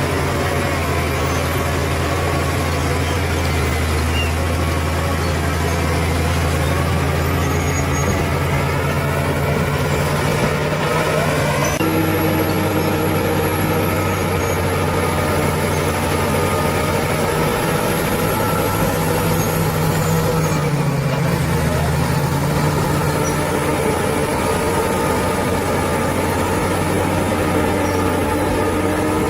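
Bulldozer's heavy diesel engine running steadily under load. It rises a little in pitch before an abrupt change about twelve seconds in, and dips briefly about two-thirds of the way through.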